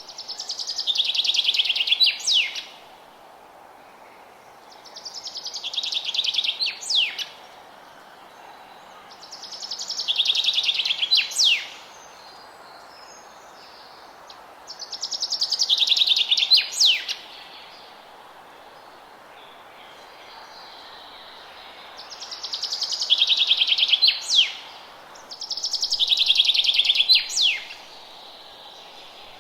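A songbird singing the same phrase six times, a few seconds apart. Each phrase is a fast trill of about two seconds that grows louder and drops in pitch, ending in a couple of sharp downward-sweeping notes. A steady low hiss of forest ambience runs underneath.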